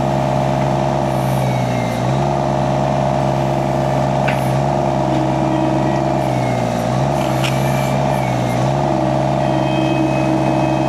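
Mini skid steer engine running at a steady high speed, its pitch dipping briefly and recovering three times, with a couple of sharp metallic clicks and a faint high whine.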